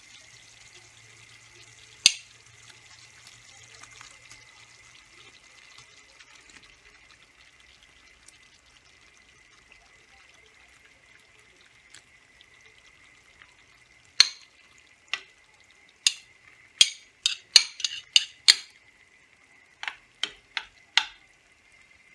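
Tomato sauce with shrimp cooking in a tagine, giving a faint steady sizzle. There is one sharp utensil knock about two seconds in, then a run of quick clicks and knocks against the cookware in the last third, as the pot is stirred.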